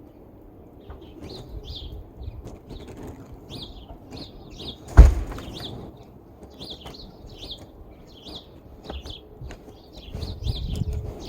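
Small birds chirping over and over, short high chirps every half second or so. About five seconds in comes a single sharp knock, the loudest sound, and near the end a low scraping of snow being brushed off a car.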